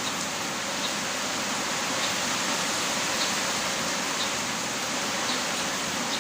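Heavy rain falling in a steady, even hiss, with a faint tick about once a second.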